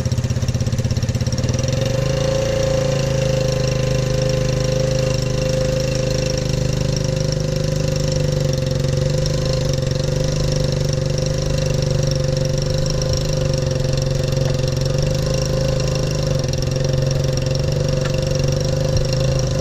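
An engine running steadily at constant, low revs, with no revving up or down.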